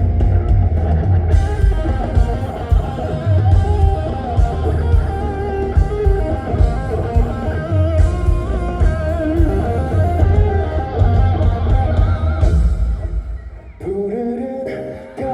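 Live rock band playing, with electric guitar over bass and drums at full loudness. Near the end the band drops back briefly, leaving a sparser guitar line.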